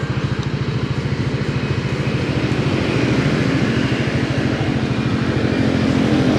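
Honda Winner X 150's single-cylinder four-stroke engine idling steadily with an even, rapid pulse.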